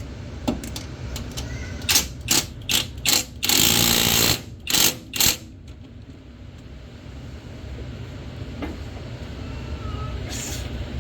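Battery-powered wrench running in short bursts on engine-mount bolts: several quick bursts, one longer run of about a second, then two more brief bursts.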